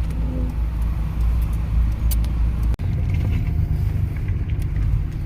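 Car engines running at low revs, a steady low rumble, with an abrupt change in the sound about three seconds in.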